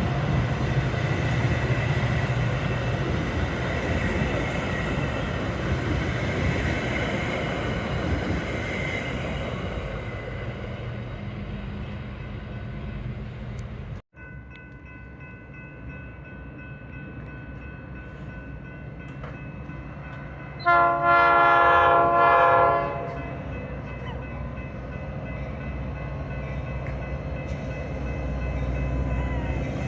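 A train rolls past with a broad rumbling rail noise that slowly fades. After a cut, a locomotive's multi-note chime horn sounds one blast of about two seconds over a low steady rumble.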